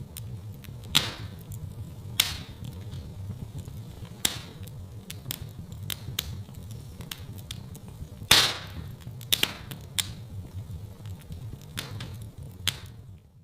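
Wood fire in a fireplace crackling, with irregular sharp pops, a few of them much louder, over a low steady rumble. The sound drops out briefly near the end.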